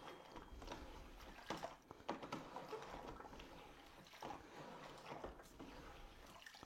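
Faint sloshing and splashing as a microfiber flat mop pad is dunked up and down in the wash water of its bucket to rinse off dirt, with a few light knocks of the mop against the plastic bucket.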